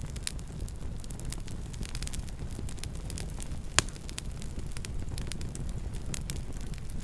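Campfire crackling: scattered small pops and snaps over a low steady rumble, with one sharper, louder pop a little past halfway.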